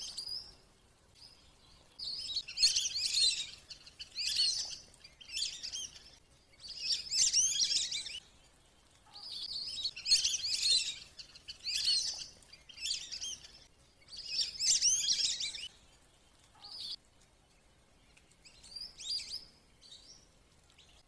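Whistling ducks (belibis) calling: bursts of high, twittering whistles about every two seconds, growing sparser near the end. It is a lure-call recording meant to draw the ducks down.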